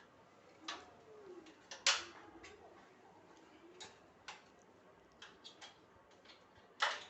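Scattered sharp clicks and taps of small hard parts being handled, about a dozen at uneven intervals, the loudest about two seconds in and near the end.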